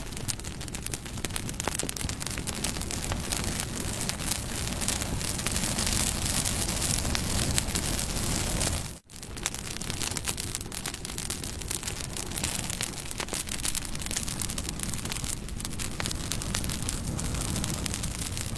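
Campfire burning, crackling with many small pops over a steady hiss. About nine seconds in the sound drops out for a moment and swells back in.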